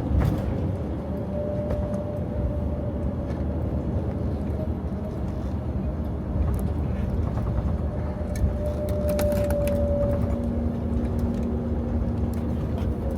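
Steady low rumble of an Airbus A321neo cabin on the ground before takeoff, from the engines and air-conditioning, with faint held tones and a few light clicks.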